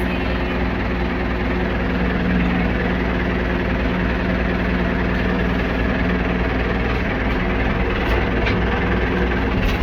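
Ford backhoe engine idling steadily.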